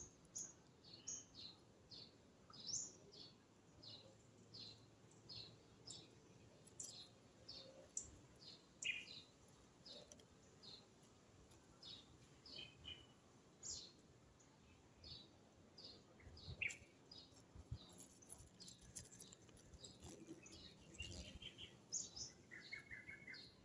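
Faint bird chirping: short high chirps repeated about twice a second, with quicker runs of chirps near the end.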